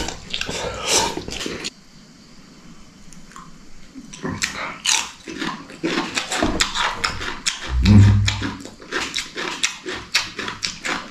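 A person eating close to the microphone: rapid, irregular wet chewing and crunching from about four seconds in, with a short low grunt near eight seconds.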